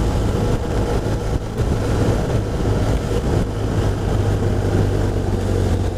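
BMW R1200RT boxer-twin engine running steadily while under way, as a low drone under an even rush of wind and tyre noise on a wet road.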